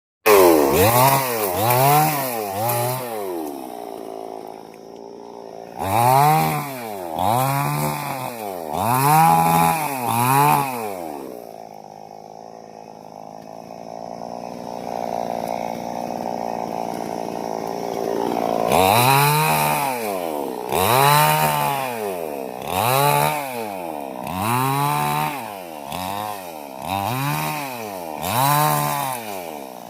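Chainsaw engine revved up and down over and over, its pitch rising and falling about once a second. In the middle it settles for several seconds into a steadier, lower running note before the revving starts again.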